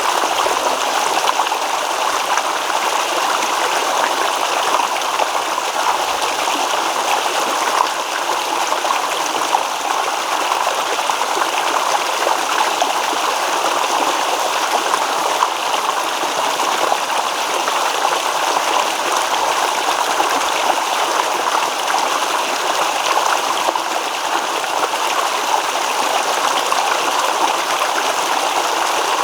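Small stream babbling over stones: a steady rush and trickle of running water.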